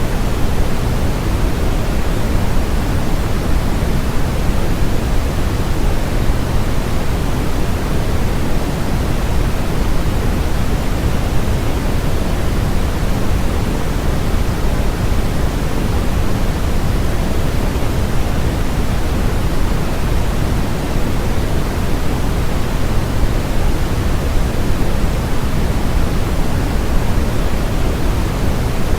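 Steady, unchanging electronically generated noise sold as white noise, a constant hiss that is fullest in the low end and thins toward the top.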